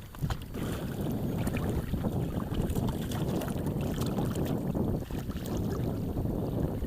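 Wind buffeting the microphone over water splashing against a small inflatable boat, a steady rumbling noise with scattered small knocks.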